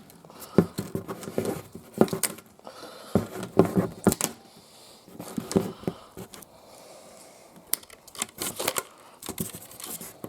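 Packaging on new tires being cut and torn open by hand: irregular tearing, crinkling and sharp knocks.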